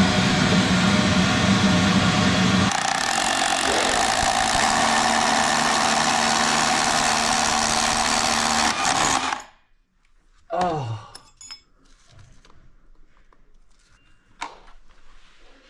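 Hammer drill boring into concrete, running loud and steady for about nine seconds with a shift in pitch about three seconds in, then stopping suddenly. A brief falling sound follows about a second later.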